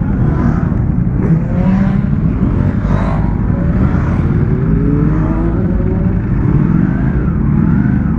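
Several superbike engines revving and accelerating at once, their overlapping notes rising and falling in pitch over a steady low rumble.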